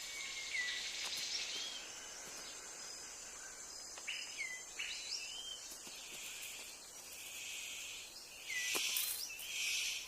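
Rainforest ambience: a steady high drone of insects with short, hooked bird chirps scattered through it. Near the end come a couple of loud, brief hissing bursts.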